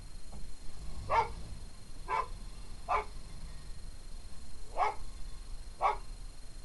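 A dog barking: five short barks at uneven intervals, over a low steady rumble.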